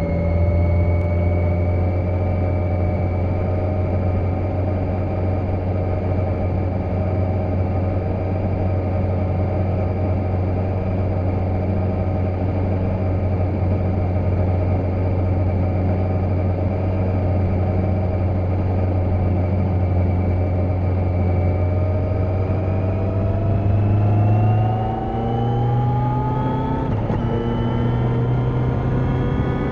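2020 Kawasaki Z900's 948 cc inline-four engine, fitted with a decat exhaust, running at a steady engine speed while riding, then accelerating near the end with the pitch climbing and a gear change a few seconds before the end.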